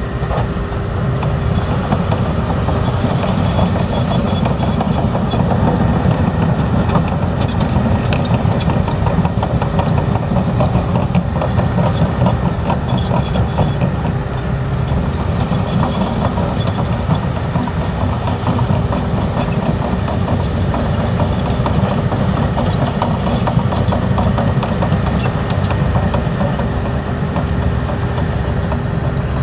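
A large engine running steadily with a constant hum and low rumble.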